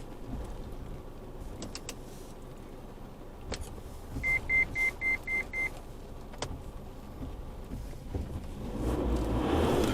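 Inside a pickup's cab: six quick, evenly spaced electronic beeps at one high pitch about halfway through, over a low rumble with a few sharp clicks. Near the end a louder rumbling noise builds up.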